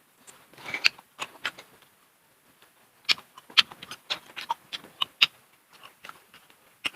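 Eating and food-handling sounds: irregular sharp clicks and crackles of shells and utensils, with short crunches, busiest from about three seconds in.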